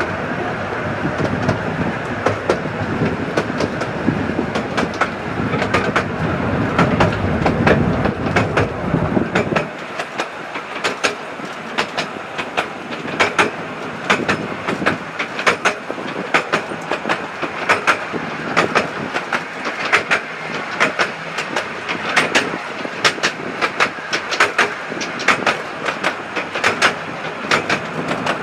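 Miniature-railway train running along the track, heard from on board: wheels rolling with a deep rumble that drops away about ten seconds in, then a steady run of sharp clicks as the wheels pass over rail joints.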